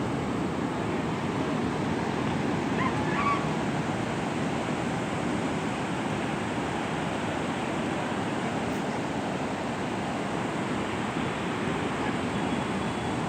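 Ocean surf washing steadily onto the shore, a continuous rush of breaking waves with a slight swell about three seconds in.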